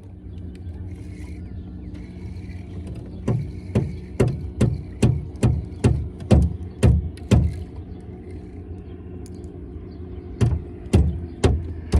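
Two runs of sharp knocks on a small fishing boat, about two to three a second, over a steady low rumble.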